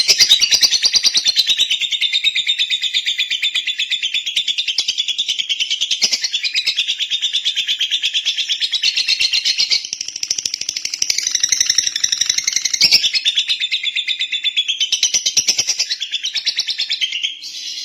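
Lovebird singing a long, unbroken run of rapid, high chattering notes, with a brief dip around the middle, cutting off abruptly near the end.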